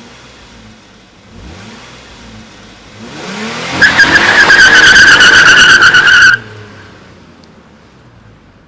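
Car engine revving, then tyres squealing loudly for about two and a half seconds before the squeal cuts off suddenly, leaving a fading engine rumble.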